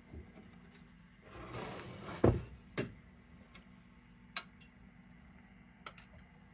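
Faint handling noises while working a nylon dial cord over a radio's tuning pulleys: a soft rustle, then a sharp knock about two seconds in and a few lighter clicks, over a steady low hum.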